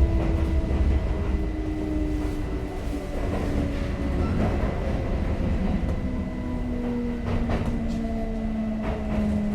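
Kintetsu 5800 series electric train running, with a low rumble and the traction motors' whine gliding slowly down in pitch as the train slows. A few sharp rail-joint clicks come near the end.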